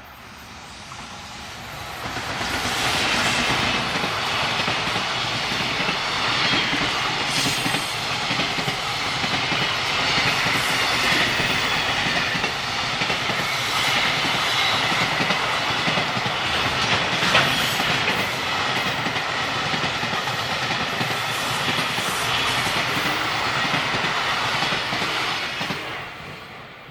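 A long electric-hauled container freight train passing close by, its wheels running steadily on the rails. The sound builds up about two seconds in, holds loud and steady, and fades away near the end.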